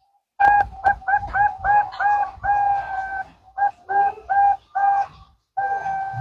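Zebra dove (perkutut) cooing: a run of short, clear, rapid notes starting about half a second in, with a longer held note about two seconds in and another near the end.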